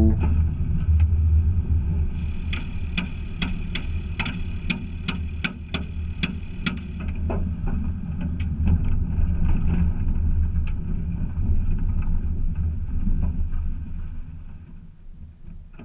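Datsun Roadster engine being turned over by the rolling car in third gear in a bump-start attempt, popping about three times a second without catching: it is spitting back through the carburetor and will not start. Under it is a steady low rumble of the car rolling, which fades near the end.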